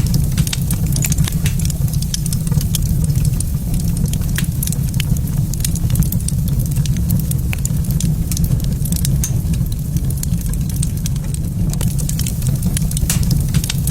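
Wood fire crackling in a fireplace, with frequent sharp pops over a steady low rumble.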